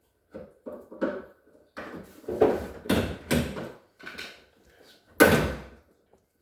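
A run of knocks and clatters, like doors, drawers or hard plastic parts being moved and set down, with the sharpest knock about five seconds in.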